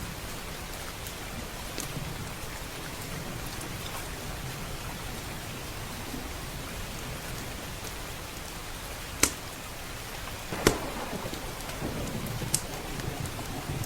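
Steady rain with a wood fire crackling in a fireplace. There are a few sharp pops, and the two loudest come about a second and a half apart, two-thirds of the way through.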